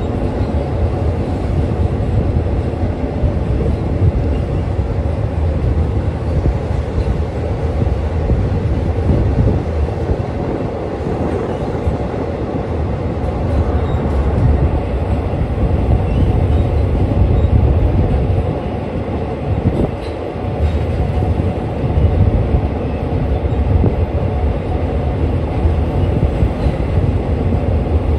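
Passenger train running on an elevated track, heard from an open window beside the coach: a continuous low rumble of wheels on rails that swells and eases slightly.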